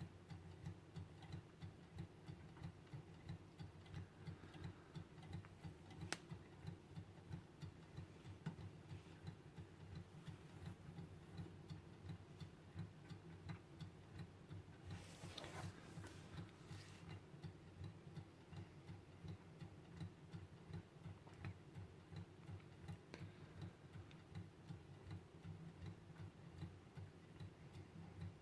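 Hand-made Stirling engine running, its mechanism giving a faint, steady, fast ticking rhythm.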